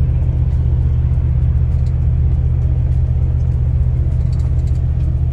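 Truck's diesel engine and road noise, a steady low drone heard from inside the cab while cruising at constant speed.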